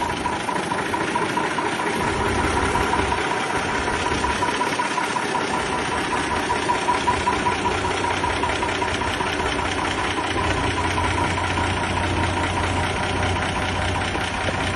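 Deutz 4 120 tractor's diesel engine running steadily with a fast, even firing pulse; its low rumble grows deeper from about ten seconds in.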